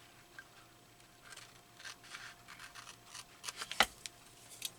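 Scissors cutting paper in a series of short snips, with one sharper click near the end.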